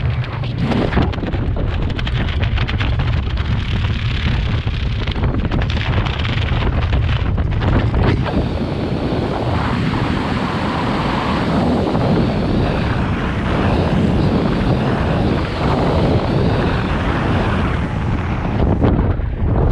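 Caterpillar D-series crawler dozer's diesel engine running steadily and heavily, with wind buffeting the microphone.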